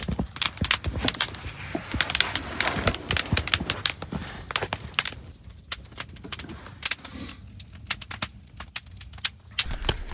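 Wood fire crackling, with a rapid, irregular run of sharp pops and snaps.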